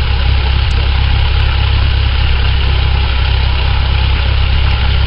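Cessna 172SP's Lycoming IO-360 four-cylinder engine idling steadily, heard from inside the cockpit with a deep, even rumble and propeller drone.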